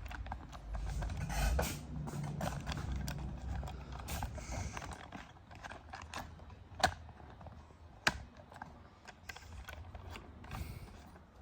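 Irregular clicks, taps and knocks of hands-on work, with two sharp knocks about 7 and 8 seconds in, over a low rumble and rustling hiss.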